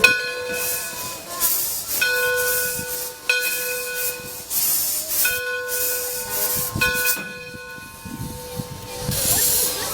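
Steam locomotive's bell ringing, five slow strokes each left to ring on, over bursts of hissing steam.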